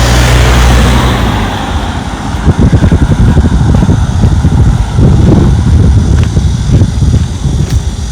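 A road vehicle passes close by: engine hum and tyre hiss, loudest at the start and fading over about two seconds. Then uneven low rumbling gusts follow, wind buffeting the microphone.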